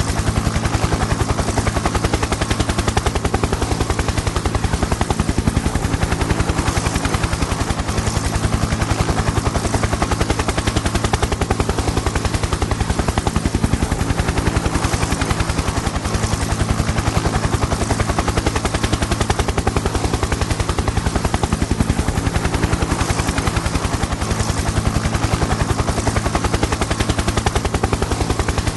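Helicopter in flight: the rotor blades beat in a rapid, even chop over a steady low engine drone, holding constant throughout.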